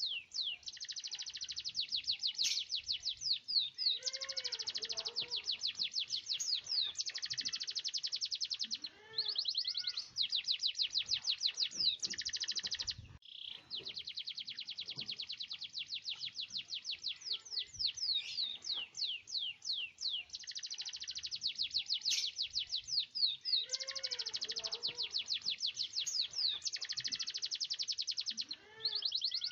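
Domestic canary singing continuously in long rolls: fast trills of rapidly repeated high notes, changing from one trill to the next, with short breaks about 9 and 13 seconds in.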